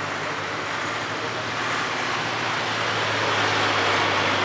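Vintage tractor engine running steadily, growing louder as it drives closer.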